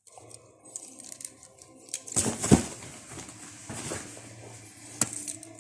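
Hands handling a plastic Gunpla model kit: rustling and knocking of plastic parts, with a louder burst about two seconds in and a sharp click about five seconds in.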